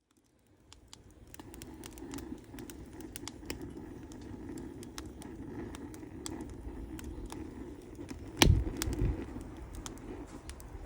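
Wood campfire burning, fading in to a steady low rumble with irregular sharp crackles and pops. About eight and a half seconds in comes one much louder pop with a low thump.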